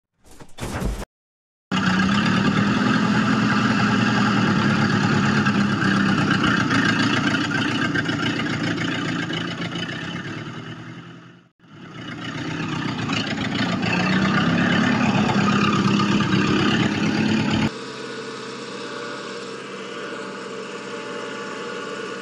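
Small electric motor of a homemade model tractor running with a steady buzzing hum. It dies away about ten seconds in and starts up again. A few seconds before the end it gives way to a quieter, thinner hum.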